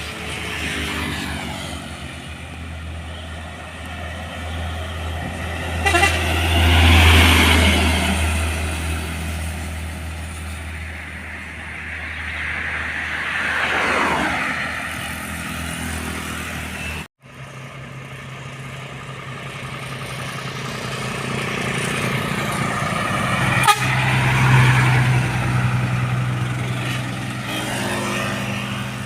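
Trucks passing on a road, their diesel engines rising and falling in pitch as they go by, with horns tooting. The sound cuts out briefly about halfway through.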